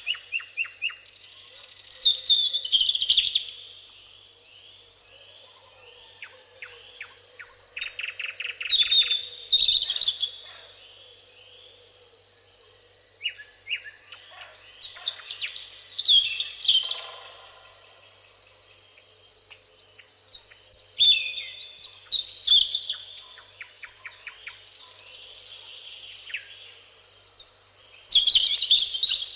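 Several songbirds singing in a meadow: loud, varied song phrases and rapid chirp runs come every few seconds, with quieter calls between them. A steady high-pitched tone runs underneath.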